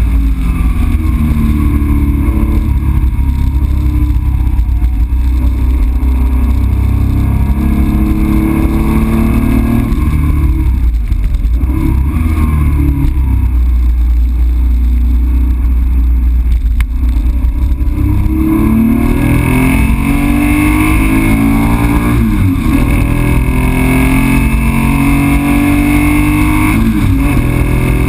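Porsche 911's air-cooled 2.7-litre flat-six on PMO carburettors, heard from inside the cabin while driven hard on a circuit. The engine note rises and falls with the corners, climbing under acceleration in the second half with sudden drops at the gear changes.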